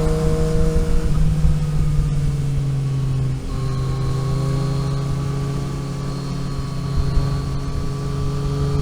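Car engine pulling on a mountain road, its pitch climbing, then dropping about a second in and again about three and a half seconds in as gears change, before settling into a steady drone. A heavy low rumble of road and wind noise runs underneath.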